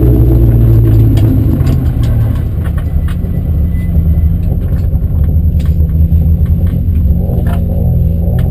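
Honda Civic F2000 rally car's engine idling while held in the start queue, heard from inside the stripped cabin as a steady low rumble. Occasional sharp clicks and rattles come through over it.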